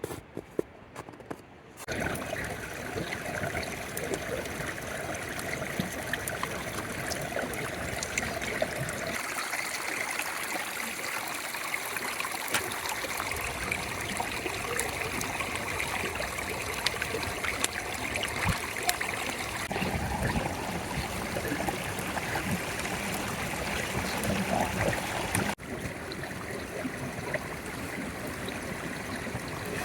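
Water flowing steadily, like a stream, starting about two seconds in after a few light scrapes, with a sudden cut near the end.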